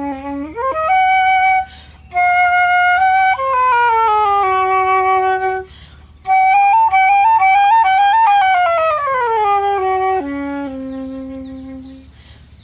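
Solo flute playing a slow melody, one note at a time: long held notes broken by short pauses between phrases, with a quick upward slide near the start and a falling run of notes about two-thirds of the way through.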